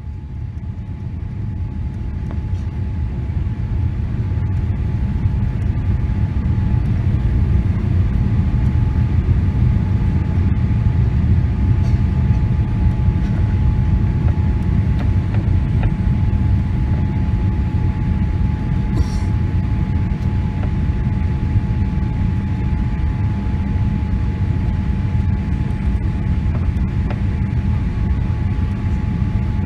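Cabin noise of a Boeing 777-300 landing: a loud, steady low rumble of engines and airflow that builds over the first few seconds and then holds, with a steady thin high tone running through it.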